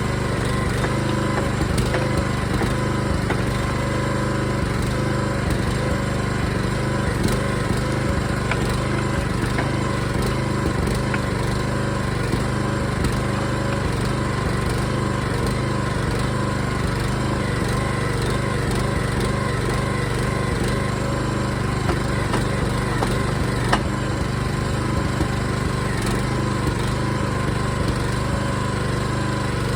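Small gasoline engine of a Harbor Freight backhoe running steadily at an even speed, with a few light clicks and knocks over it.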